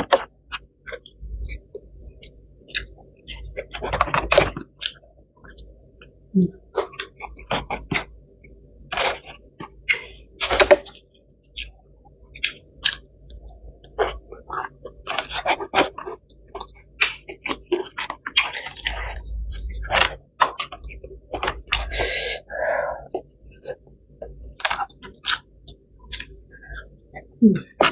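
Close-up eating sounds: chewing and lip smacks with irregular clicks and crackles as food is picked by hand out of thin plastic takeaway containers.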